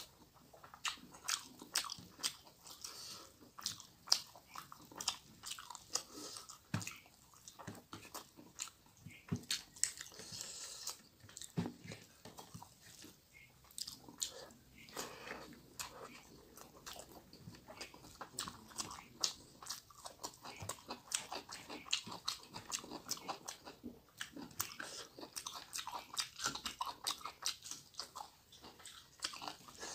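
A person chewing and smacking their lips while eating rice and fish curry by hand: a dense, irregular run of short mouth clicks and smacks, several a second.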